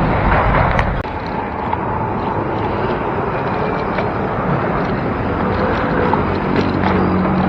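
Steady road-traffic noise with wind rushing over the microphone of a moving bicycle, a few light clicks scattered through it.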